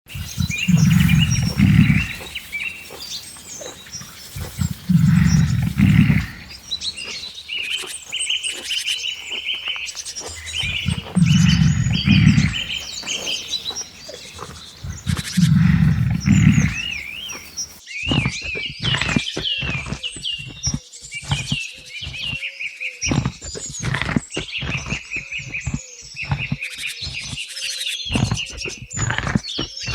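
A large animal gives four deep roars, each about a second and a half long, over birds chirping. About two-thirds of the way in the sound changes abruptly to dense bird chirping and twittering with scattered clicks.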